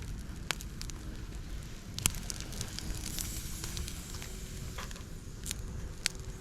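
Campfire of dry chopped bamboo and twigs burning in a fire pit: a steady crackle with scattered sharp pops, the loudest about two seconds in.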